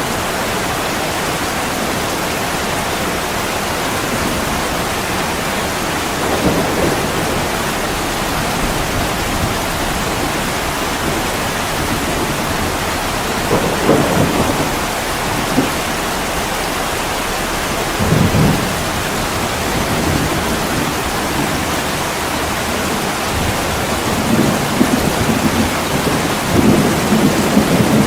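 Heavy rain falling steadily on a window: an even hiss with a few short, low rumbles about a third and two-thirds of the way in, and more of them near the end.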